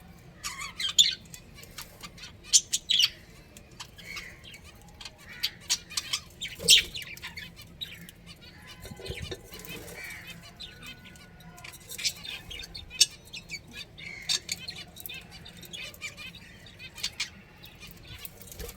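Budgerigars chirping: many short, sharp, high chirps and clicks at irregular intervals, some much louder than the rest.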